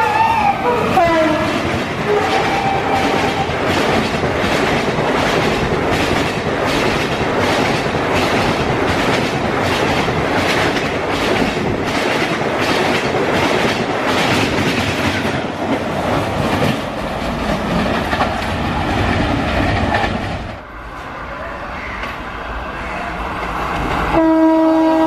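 An Indian Railways express train passing at speed: the locomotive's horn drops in pitch as it goes by, then the coaches run past with a steady rush and a rapid clickety-clack of wheels over rail joints. About 20 seconds in the rush drops away as the train clears, and near the end another train horn starts and holds a steady note.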